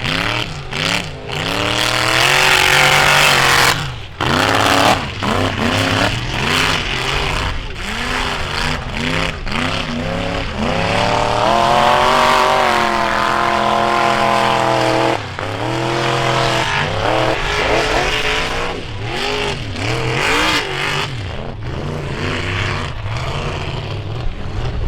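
Off-road vehicle engine revving hard again and again in rising and falling bursts, held at high revs for several seconds around the middle.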